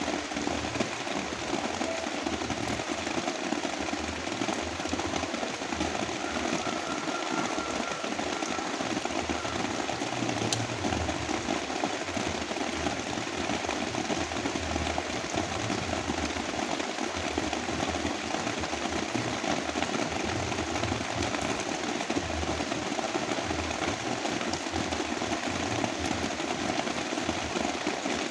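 Heavy rain mixed with brown noise: a steady, dense hiss with an uneven low rumble beneath it.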